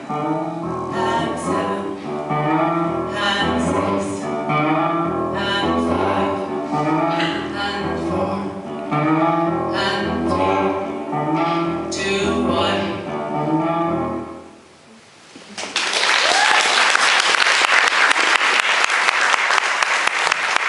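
A small vocal group singing in harmony, the song ending about fourteen seconds in; after a brief pause an audience breaks into applause that keeps going.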